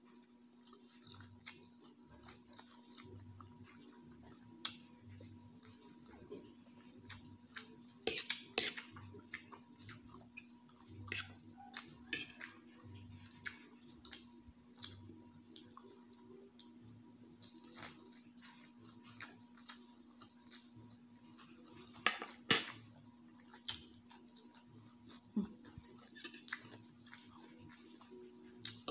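Close-miked eating of stir-fried instant noodles (pancit canton): wet chewing and mouth sounds with a metal fork clicking and scraping on the plate, two louder clinks along the way. A steady low hum runs underneath.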